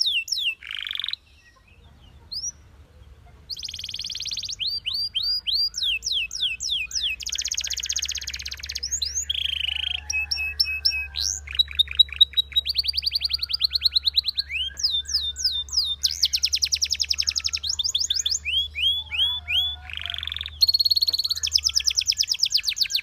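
Belgian canary singing: fast runs of repeated down-sliding whistled notes alternating with rapid trills, with a short break near the start.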